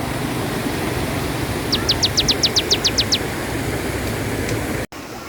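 River water rushing steadily, with a bird's rapid trill of about ten high notes in the middle. Near the end the sound cuts out for an instant and comes back quieter.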